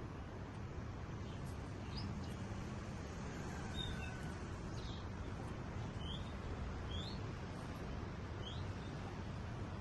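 White-rumped shamas (murai batu) giving short, faint chirps, about six spread over ten seconds, over a steady low background rumble.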